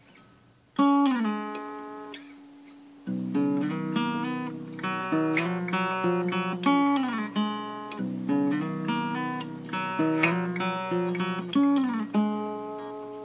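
Guitar in an altered low-string tuning playing a repeating fingerpicked riff with slides. It opens with a single note sliding down, then a picked figure over low notes repeats about every four seconds.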